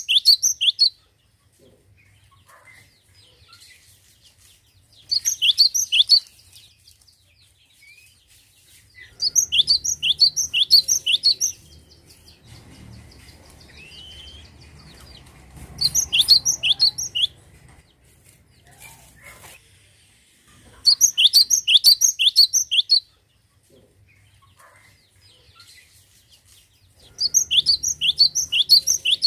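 Cinereous tit (glatik batu) singing: bursts of rapid, evenly repeated high notes, each burst lasting one to three seconds and coming about every five or six seconds.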